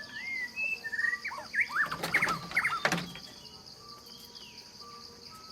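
A quick run of high, rising and falling chirping calls over the first three seconds, with a couple of sharp clicks among them, over a steady high-pitched insect drone.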